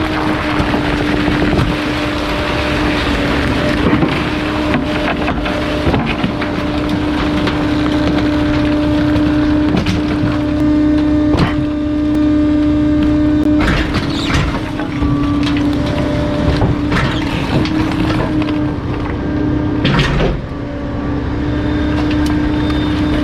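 Garbage truck's hydraulic compactor crushing bulky items: a steady hydraulic hum throughout, with irregular sharp cracks and snaps as the load breaks under the packer.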